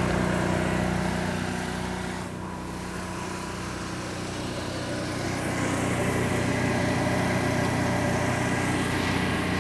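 An engine running steadily with an even hum, growing fainter about two seconds in and then louder again.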